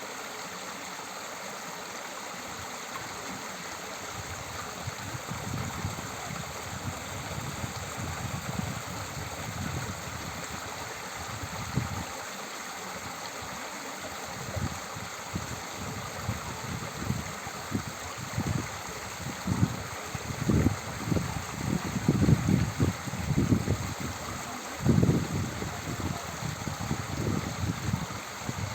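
Forest stream running steadily, with irregular low gurgling surges that grow stronger in the second half.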